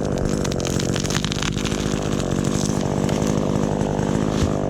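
Chainsaw engine running steadily under power, cutting off suddenly at the end.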